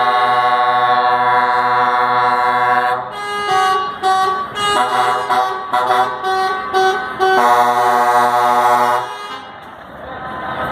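Truck air horns sounding a chord of several notes: one long held blast, then a string of short toots, then another long blast that stops about nine seconds in.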